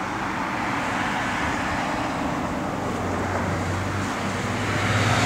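Chevrolet L82 350 V8 running at a steady idle under the open hood, a constant low hum with a wash of engine noise that swells slightly near the end.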